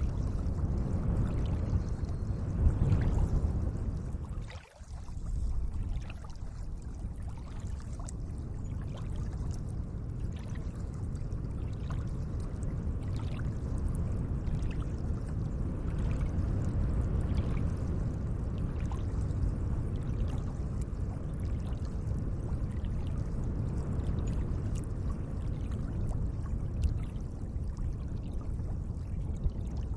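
Gentle lake water lapping and trickling: a steady wash of water with small splashy ticks scattered through it, dipping out for a moment about five seconds in.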